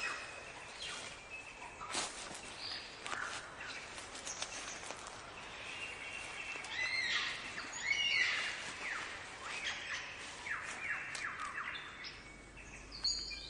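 Birds singing: a varied run of whistles, chirps and sharp clicks, with a quick series of falling whistled notes repeated several times about two-thirds of the way through.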